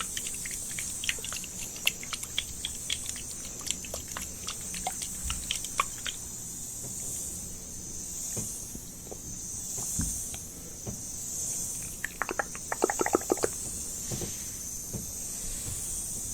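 Close-miked ASMR mouth sounds: irregular wet clicks and tongue pops, with a quick run of rapid clicks near the end, over a steady high hiss.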